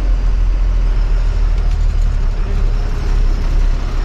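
Truck engine running steadily under way, a continuous low rumble with road noise.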